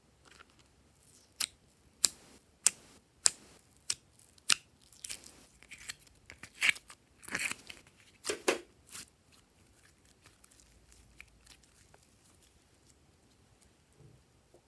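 Glossy slime being worked by hand: a run of sharp clicks and pops roughly every half second, then a few seconds of longer, crunchier squishing, dying away about nine seconds in.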